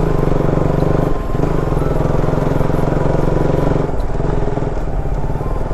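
Motorcycle engine running steadily under way, with a slight change in its note a couple of times as the throttle shifts.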